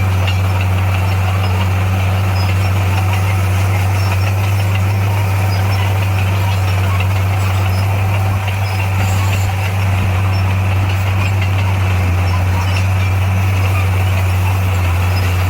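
SDLG motor grader's diesel engine running steadily, with a strong, even low hum.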